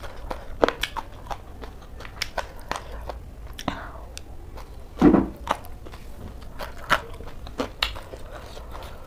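Close-up chewing of a crunchy raw shredded-cabbage salad: irregular crisp crunches and wet mouth clicks, with one louder, fuller mouth sound about five seconds in.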